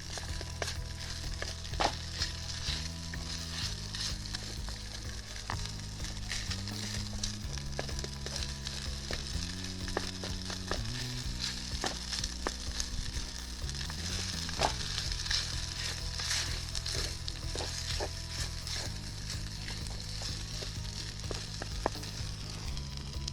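Food sizzling and crackling as it fries in a hot pan, with the sizzle stopping abruptly at the end, over background music with a bass line.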